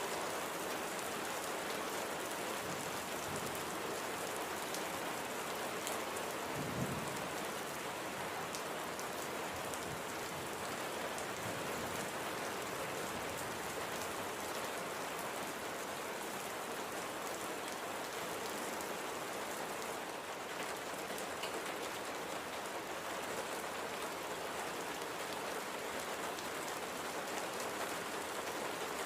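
Steady light rain falling, with fine drips and patter on surfaces, and a single soft low thump about seven seconds in.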